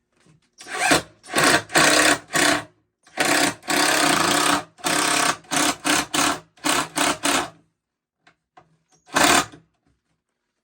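Dewalt 20V cordless drill/driver driving pocket-hole screws into 2x4 braces, running in a string of short bursts with one longer run of about a second and a half midway, then a last short burst near the end.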